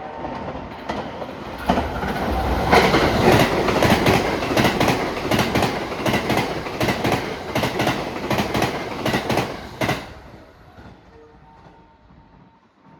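Train passing close by, its wheels clattering over the rail joints at about three knocks a second; the sound builds in a couple of seconds in, stays loud, then falls away near the end.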